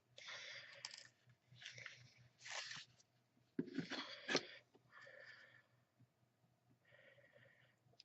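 Sheets of cardstock being handled and slid over one another on the desk, a run of short paper rustles and scrapes with a couple of sharp taps about four seconds in, then fainter rustles.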